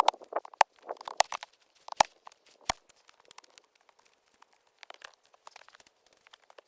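Irregular sharp cracks and crunches, dense for the first three seconds, then thinning to scattered faint ticks.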